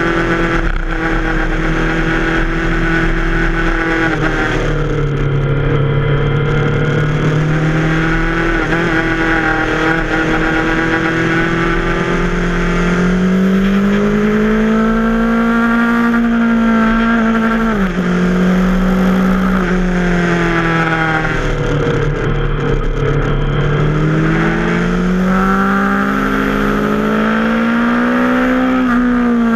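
Yamaha FZ6R's parallel-twin engine running hard through a series of curves, its pitch rising and falling with the throttle. The revs drop sharply and recover a little past halfway, as in a quick gear change.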